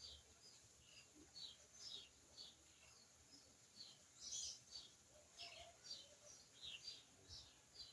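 Faint, steady series of short, high bird chirps, two or three a second, each dropping slightly in pitch, with one louder, fuller call about halfway through.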